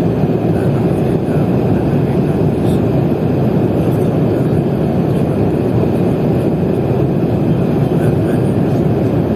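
Steady cabin noise of an airliner in cruise flight: an even, unbroken noise of engines and airflow, heard from inside the cabin.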